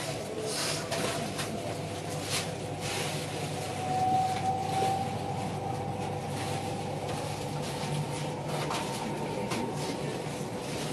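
Running noise heard inside a moving Tilt Train passenger carriage. A faint whine rises slowly in pitch over the steady rumble, with a few light clicks.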